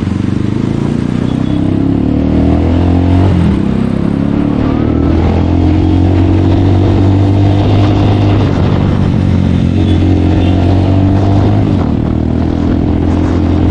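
Bajaj Pulsar 220F's single-cylinder engine running through an aftermarket full-system exhaust with a stainless steel bend pipe, the motorcycle under way. The engine note is steady, with its pitch shifting a few times as the revs change.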